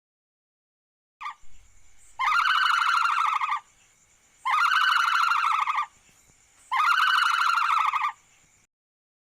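An animal calling three times: long, even, buzzy calls of about a second and a half each, a little over two seconds apart.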